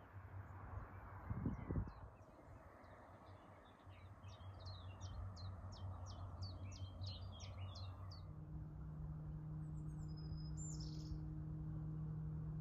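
A songbird singing a quick series of short, high, repeated notes over a light rush of wind, then another brief descending call a little later. A soft, steady ambient music drone sits underneath and changes to a new pitch about two-thirds of the way through.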